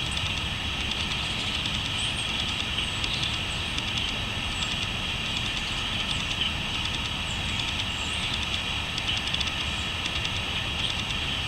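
Crickets chirping in a dense, steady chorus, with short high bird chirps now and then, over a steady low rumble.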